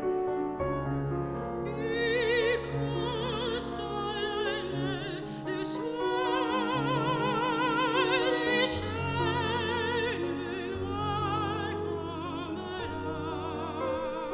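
Classical soprano singing with wide vibrato over piano accompaniment; the voice enters about a second and a half in over held piano bass notes.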